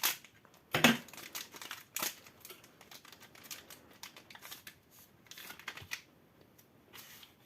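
A collectible card game booster pack being opened by hand, its foil wrapper crackling and rustling in a series of sharp strokes, the strongest about a second in.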